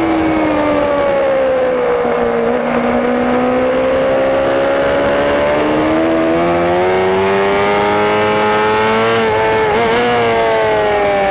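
Onboard sound of a racing superbike's engine under way over steady wind noise. The engine note falls as the bike slows, holds low, then climbs steadily under acceleration, with a couple of brief stutters, and drops again near the end.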